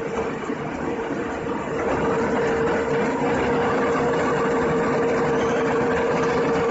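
Industrial multi-hole drilling machine running: a steady mid-pitched whine over a dense machining noise, growing somewhat louder about two seconds in.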